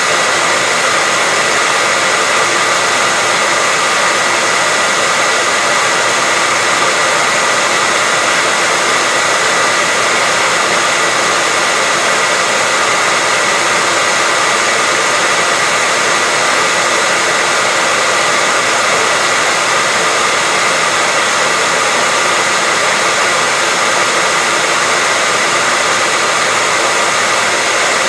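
Hair dryer running steadily: an even, unchanging blowing hiss with a faint steady whine in it.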